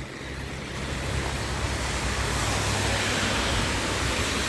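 Heavy rain falling, a steady even hiss over a low rumble, swelling over the first second or so and then holding.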